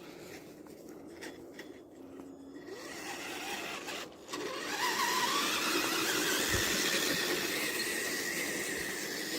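Electric motor and gear drive of a Tamiya TXT-2 RC monster truck, quiet at first, then whining up in pitch as it speeds off about halfway through and holding a steady high whine.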